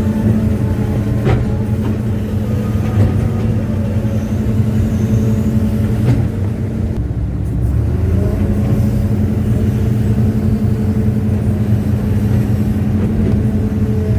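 Hitachi excavator's diesel engine running steadily under work, its note dropping briefly about halfway through before settling back.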